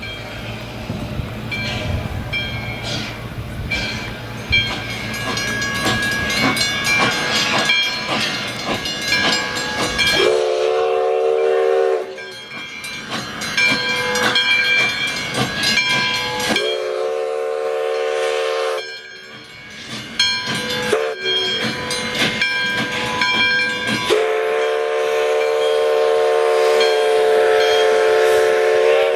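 Steam locomotive working in a rail yard, hissing and clanking with steady high ringing tones, then sounding its chime whistle three times: two blasts of about two seconds each, then a long blast of about five seconds near the end.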